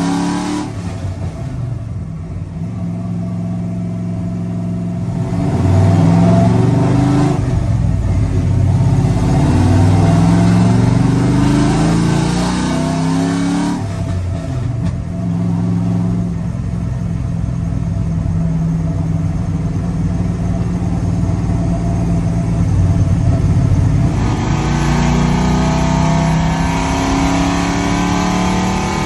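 Very loud exhaust of a cammed pickup truck engine (stage 4 cam, headers, cold air intake) pulling through gears: the pitch climbs and drops back at each shift, several times. It holds a steady note for about ten seconds in the middle, then climbs again near the end.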